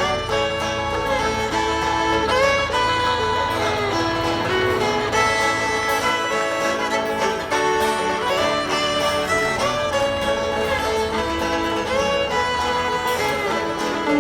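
Instrumental folk music: a fiddle plays the melody with sliding notes over a guitar accompaniment.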